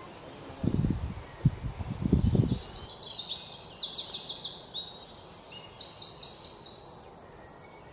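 Songbirds singing outdoors, with repeated quick runs of high, down-slurred notes through the second half. Before that, in the first couple of seconds, there are low rumbles.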